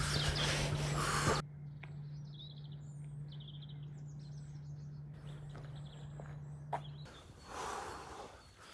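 Songbirds chirping in short, quick phrases, faint against the quiet outdoor background. Broad rushing noise covers the first second or so.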